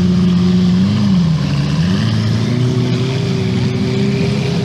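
Lamborghini supercar engine running at a steady, high idle, its pitch dipping briefly and coming back up about a second and a half in.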